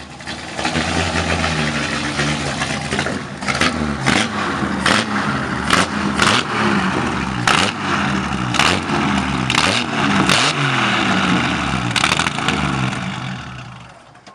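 Delahaye 135's straight-six engine running and being revved again and again, its pitch rising and falling, with about ten sharp cracks spread among the revs. The sound fades away near the end.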